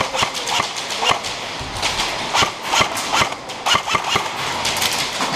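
Airsoft guns firing in an indoor arena: scattered, irregular sharp cracks, several a second, with echo after them.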